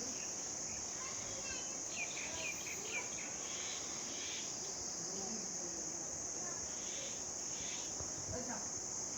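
Steady, high-pitched chorus of insects in the open air, unbroken throughout, with a few faint bird chirps in the middle.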